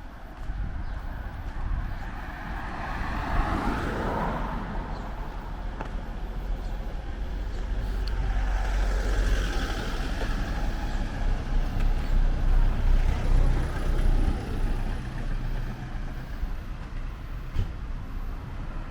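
Road traffic passing close by: motor vehicles driving past with a low engine rumble, one going by about three to four seconds in and another around nine seconds in.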